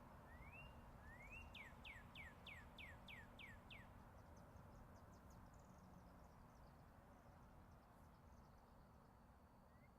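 Faint songbird song: two rising whistled notes, then a quick run of about six falling notes, answered later by a thin high trill and, near the end, the rising notes again. Underneath is the steady distant hum of interstate highway traffic.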